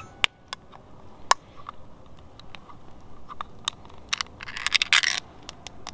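Wood campfire crackling, with sharp pops at irregular intervals and a brief hissing rush about five seconds in.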